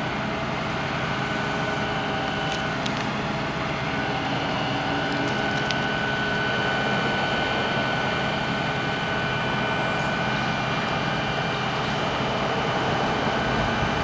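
Bucket truck's Cummins 6.7-litre diesel running steadily to power the hydraulic boom: an even engine drone with a thin, steady whine over it.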